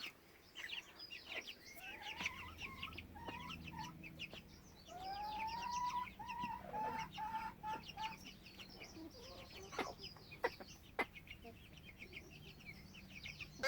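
Silkie chicks peeping throughout, mixed with a hen's run of repeated clucking calls starting about five seconds in, and a few sharp clicks near the end.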